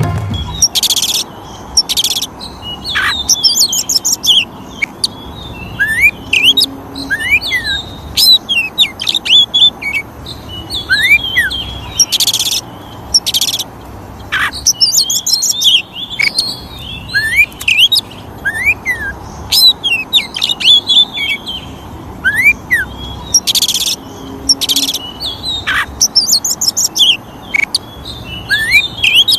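Oriental magpie-robin (kacer) singing loudly: a varied song of rising and falling whistled notes, rapid high trills and short harsh rasping notes. The same run of phrases repeats about every 11 to 12 seconds, as a looped recording.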